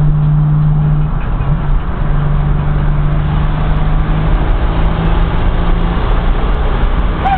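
Twin-turbocharged Mustang's engine running steadily at a constant drone over road noise. The drone fades out about six seconds in, and a short falling whistle follows near the end.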